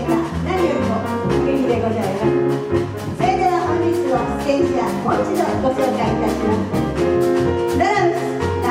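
A jazz chorus singing with a small band of piano, saxophone, bass and drums, the cymbals keeping a steady beat under the melody.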